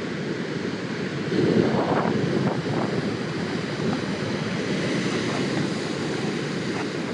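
Ocean surf breaking, with wind rushing on the microphone: a steady roar of water that swells louder about a second and a half in.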